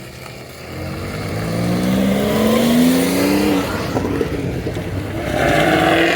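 Car engine accelerating hard past the listener, its note rising for a couple of seconds and dropping off about three and a half seconds in, then rising again near the end.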